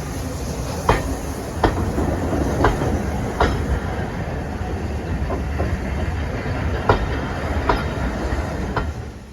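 Train wheels rolling over rail joints: a steady low rumble with sharp irregular clicks of clickety-clack.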